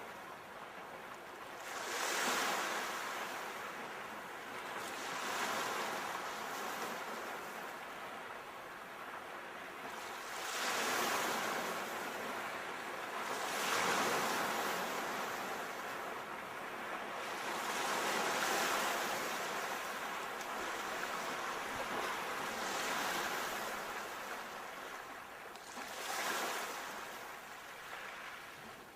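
Ocean waves breaking and washing up the shore, the rush of surf swelling and ebbing about seven times, every three to five seconds.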